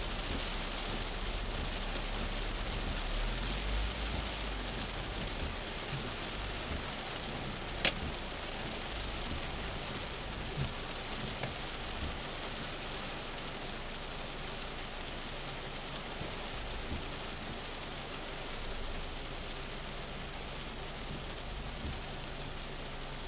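Heavy rain falling on a car's windshield and roof, heard from inside the cabin as a steady hiss, with one sharp click about eight seconds in.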